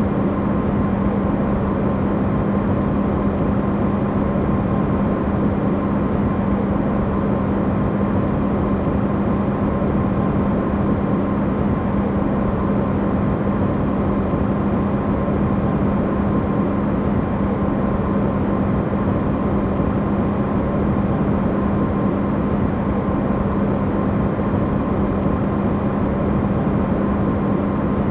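Electrolux refrigerator running, recorded close up and amplified: a steady low hum with one strong tone over an even rushing noise.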